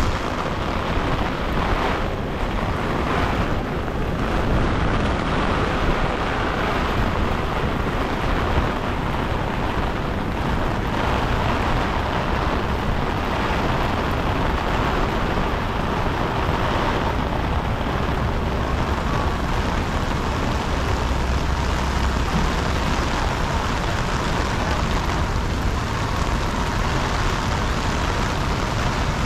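Heavy rain falling steadily on wet pavement, a constant hiss with low street rumble underneath.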